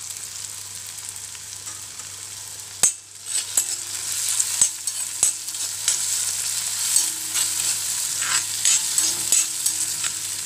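Chopped shallots, tomato, garlic and curry leaves with cashew nuts sizzling in hot oil in a kadai while a spatula stirs them, clicking and scraping against the pan. The sizzle is quieter for the first few seconds, with a sharp click about three seconds in, then grows louder.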